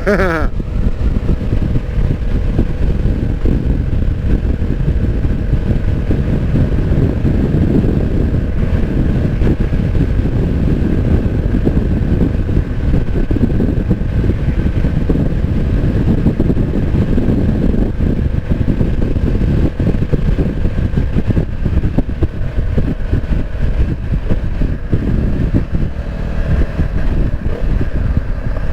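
Honda CB500X's 471 cc parallel-twin engine running through an aftermarket exhaust while the motorcycle is ridden, a steady engine note with most of its sound low and rumbling.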